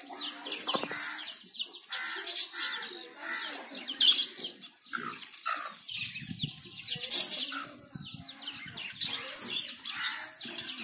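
Small birds chirping: a fast run of short downward-sliding chirps, about three a second, with several louder sharp chirps mixed in, and low clucking calls beneath.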